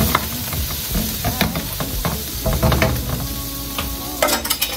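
Garlic and ginger sizzling in hot oil in a metal wok, stirred with a wooden spatula that scrapes and knocks against the pan. There is a quick run of sharp taps about four seconds in.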